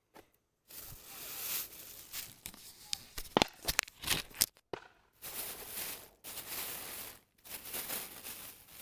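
Rustling and crackling noise in irregular stretches, with a few sharp loud clicks about three to four and a half seconds in.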